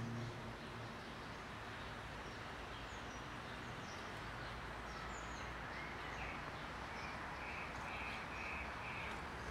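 Steady outdoor background noise with faint bird chirps. Near the end a bird calls about five times in quick, even succession.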